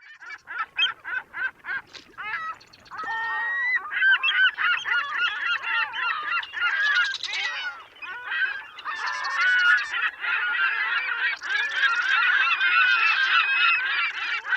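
A flock of birds calling: separate calls at first, about two a second, then from about three seconds in many birds calling at once in a dense, overlapping chorus.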